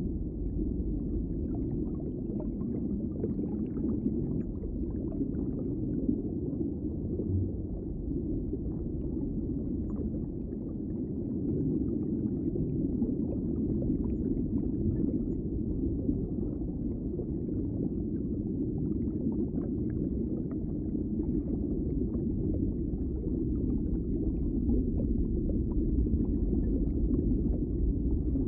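Underwater ambience: a steady low rumble with faint scattered clicks.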